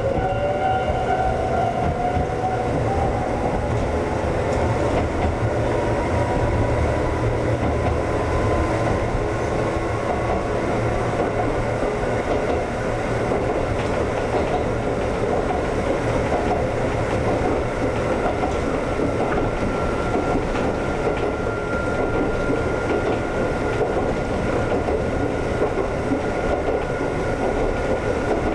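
Konan Railway 7000 series (ex-Tokyu 7000 series) electric train running, heard from inside the leading car, with the rumble and clatter of wheels on the track. A motor and gear whine rises steadily in pitch over the first twenty seconds or so as the train gathers speed, then holds at a steady pitch while it runs on at speed.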